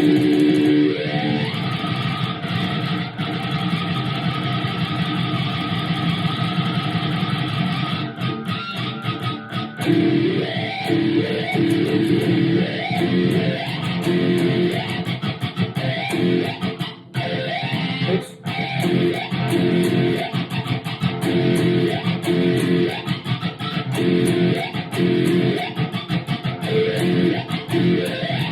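Electric guitar played through a wah pedal, with sweeping wah tones at first and, from about ten seconds in, a run of short rhythmic chord stabs. The sound cuts out briefly twice in the second half.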